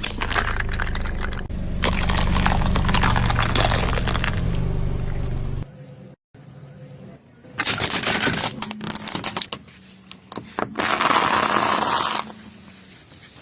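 Things cracking and crunching as they are crushed under a car tyre, with a low steady hum beneath, which cuts off abruptly about six seconds in. The crunching comes back in two more bursts, the second the loudest.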